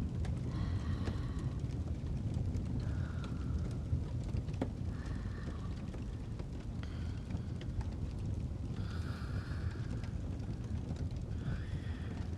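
Fireplace ambience: a steady low rumble of burning with scattered small crackles. Over it, soft breaths of someone sleeping rise and fade, about one every one to two seconds.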